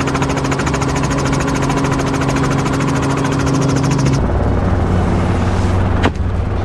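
Helicopter running, a steady engine drone with a fast, even rotor beat; about four seconds in the sound changes abruptly to a lower, duller drone. A single sharp shot cracks near the end.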